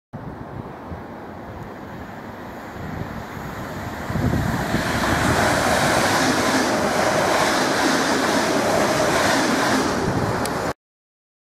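Electric multiple-unit train passing at speed: a rushing noise of wheels and air that swells about four seconds in, holds steady and loud, then cuts off suddenly near the end.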